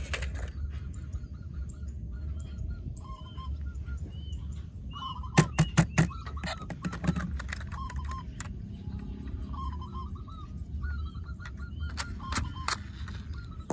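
Repeated short honking bird calls over a steady low hum, with a quick run of sharp clicks about halfway through and a few more near the end.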